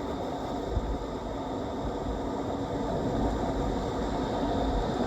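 River rapids rushing past a raft: a steady, even roar of white water with a few deeper low swells.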